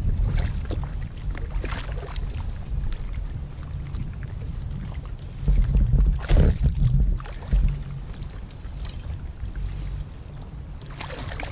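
Wind rumbling on the microphone on a kayak, with several short sharp noises, the loudest about six seconds in and another near the end.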